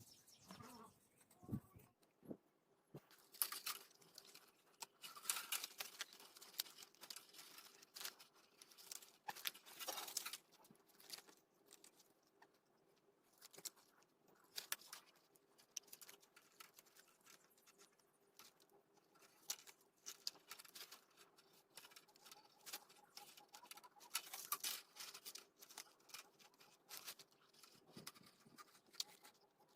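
Faint, irregular scratching, tapping and rustling of hands working on the parts of a small handmade bamboo fan, with a faint steady hum underneath.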